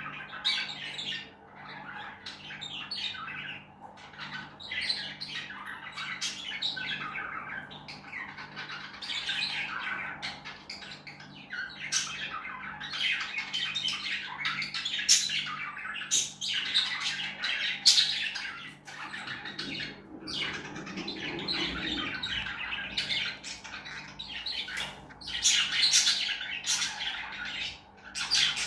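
Pet lovebirds chattering nonstop, a dense jumble of shrill chirps and squawks.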